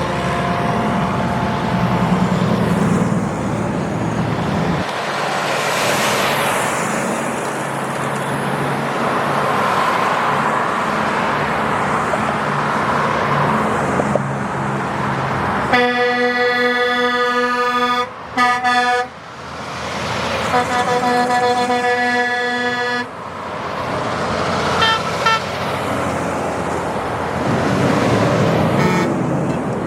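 Trucks passing with engine and road noise, then a long horn blast about halfway through, broken off briefly and sounded again for a few seconds. Shorter horn toots follow near the end.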